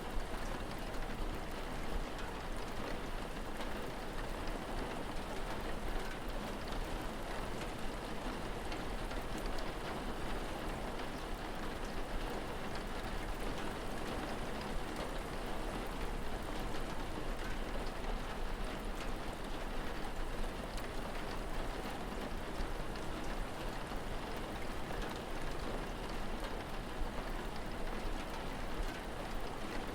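Steady rain, an even hiss with scattered fine drop ticks, over a constant low rumble.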